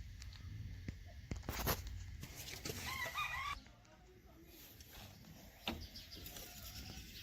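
Faint scattered knocks and clicks, with a chicken clucking in the background about three seconds in.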